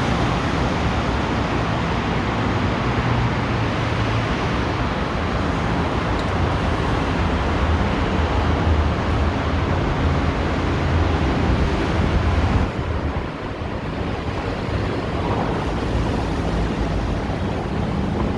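Steady outdoor rumble of traffic noise with wind on the microphone, dropping a little in level about two-thirds of the way through.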